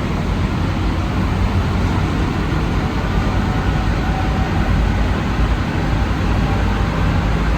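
Steady running noise inside a rubber-tyred Alstom NS-74 metro car travelling at speed between stations: a continuous low rumble with a hiss over it and no distinct tones or knocks.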